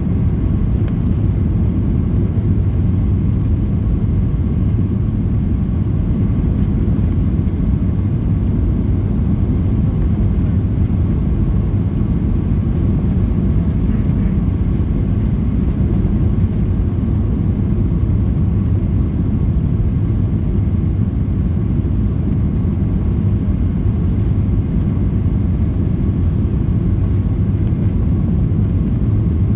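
Steady cabin noise inside a Boeing 737-800 descending toward landing: an even, low rush of engine and airflow with a faint steady whine above it.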